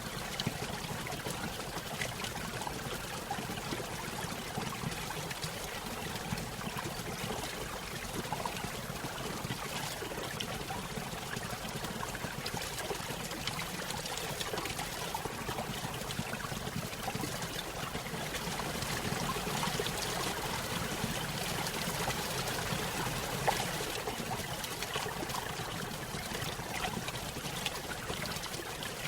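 Small stream spilling over a little waterfall: a steady trickling and splashing of running water.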